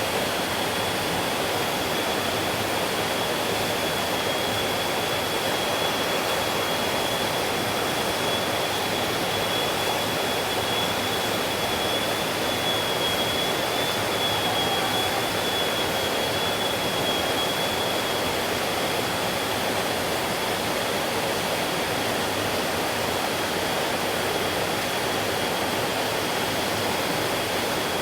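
Mountain stream rushing steadily over rocks, a continuous even noise of flowing water. A thin high tone holds steady above it throughout, strongest in the middle.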